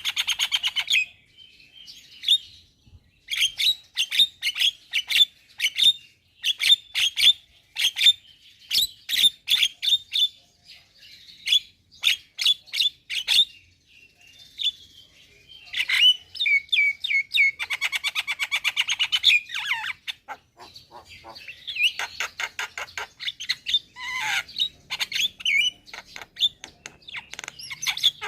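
Javan myna singing: a varied string of short, sharp chirps and clicks, broken by longer rasping rattles at the start and again midway.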